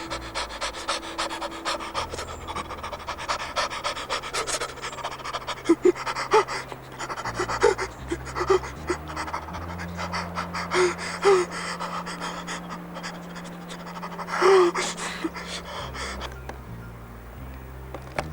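Rapid, rhythmic panting close to the microphone, fading out near the end, over low sustained background notes that step from one pitch to another.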